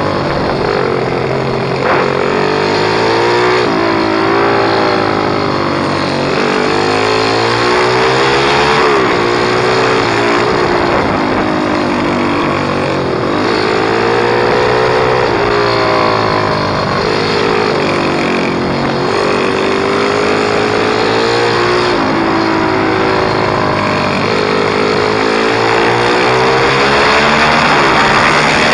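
Pit bike's small single-cylinder engine revving hard as it is ridden, its pitch climbing and then dropping back over and over every couple of seconds through gear changes and braking.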